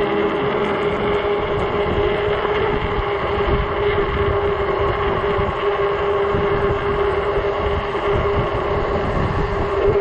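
Riding an Ecotric 48 V fat-tire e-bike at a steady speed: a constant drone from the bike's motor and tyres, with wind buffeting the microphone.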